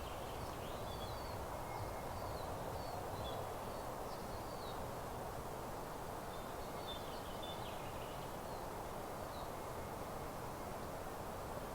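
Small songbirds chirping and trilling in short high phrases over a steady outdoor hiss, with a pause in the birdsong around five seconds in.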